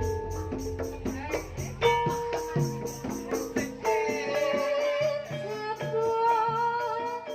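Banyumas-style gamelan music: evenly struck melodic percussion notes with a fast rattling beat. A sinden's wavering, ornamented vocal line comes in about four seconds in.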